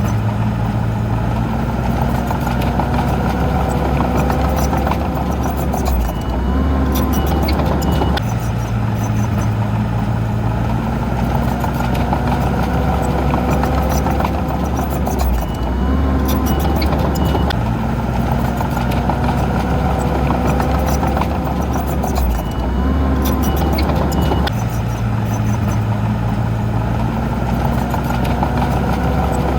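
Heavy diesel earthmoving machinery engine running steadily under load. The same sound pattern repeats about every seven to eight seconds.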